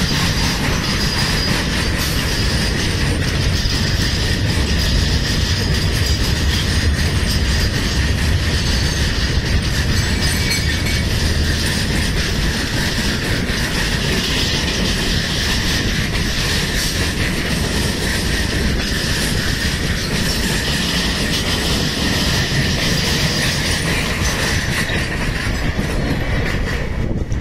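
Freight train of steel-coil wagons rolling past at close range: a steady low rumble of wheels on rail with a constant high wheel squeal. The noise drops away as the brake van at the tail goes by near the end.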